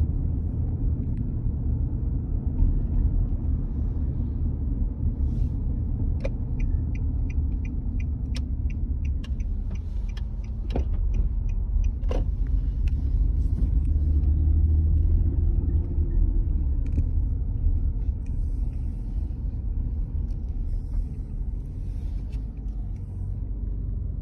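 Car driving: steady low engine and road rumble, its engine note slowly rising and falling. Partway in comes a few seconds of rapid even ticking, about five a second, followed by two sharp clicks.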